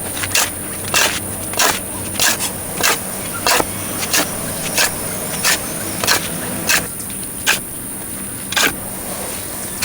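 A steady run of sharp knocks, about one every two-thirds of a second, over a steady high tone.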